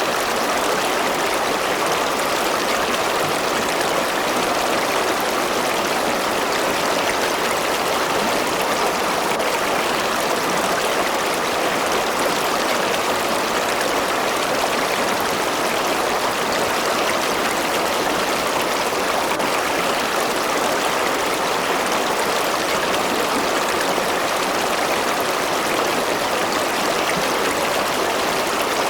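River or stream water flowing steadily over rocks, a constant rushing and burbling with no change.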